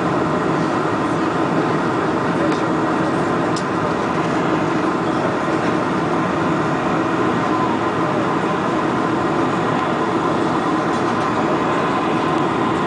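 Steady cabin roar of a four-engine Boeing 747-400 on approach: the jet engines and rushing airflow heard from inside the cabin, even and unchanging.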